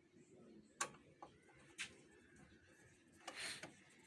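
Faint, sharp clicks, three in the first two seconds, and a brief scraping rustle near the end: small parts of a photocopier's document feeder being handled during reassembly.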